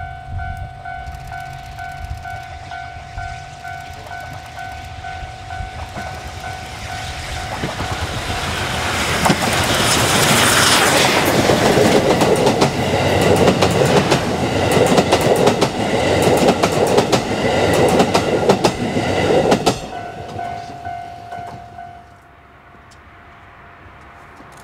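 D51 200 steam locomotive and its train passing: the sound builds over several seconds, stays loud for about ten seconds with sharp clicks of wheels over the rail joints, then dies away near the end.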